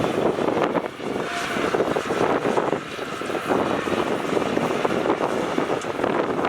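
Heavy earthmoving machinery running at a fill site, with wind noise on the microphone.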